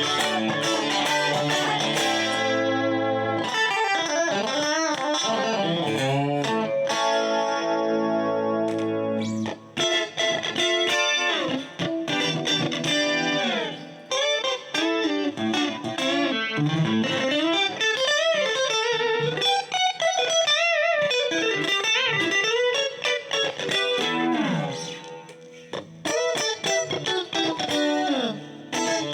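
Dimavery ST-312BK electric guitar played with a clean tone: ringing chords held for the first few seconds, then single-note lines with string bends and vibrato. Playing drops briefly about three-quarters of the way through.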